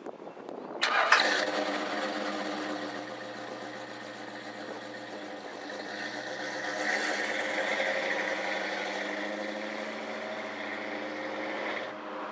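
A car engine catches with a sudden loud burst about a second in, then runs steadily until the sound cuts off abruptly near the end.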